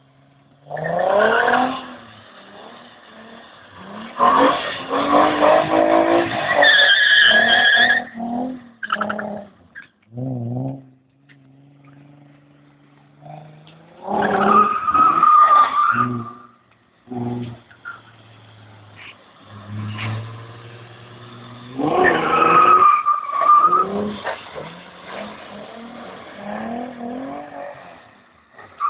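Nissan 300ZX's V6 revving hard in several bursts as the car drifts on wet pavement, with tires squealing over the revs, and settling back to idle between runs.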